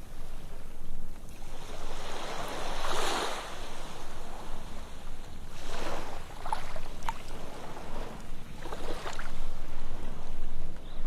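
Sea waves breaking and washing up a beach: surges of surf noise swell and fade, the biggest about two to three seconds in, with more around six and nine seconds, and brief crackles as the water runs back.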